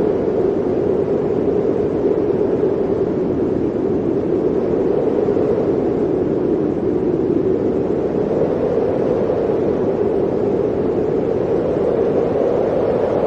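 Blizzard wind blowing steadily as a dense rushing howl, its pitch sinking slightly over the first few seconds and rising again near the end.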